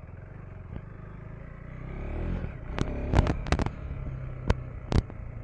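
Single-cylinder KTM 390 Enduro R dirt bike engine running at low revs, then revving up about two seconds in. This is followed by several sharp knocks and clatters over rough ground.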